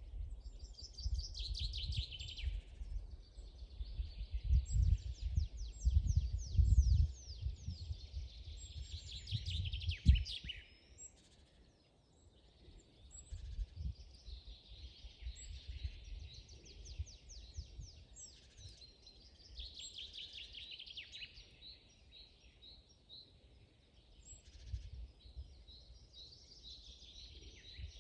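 Several songbirds singing together in a forest chorus, with rapid trills of quick down-sweeping notes and scattered high chirps. For the first ten seconds a low rumble sits under the song and is the loudest sound, ending with a single knock.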